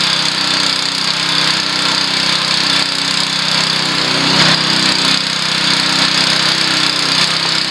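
Honda WB20XT semi-trash water pump's small single-cylinder four-stroke engine running steadily at speed. The pump has not yet picked up water, and the owner thinks it may need repriming.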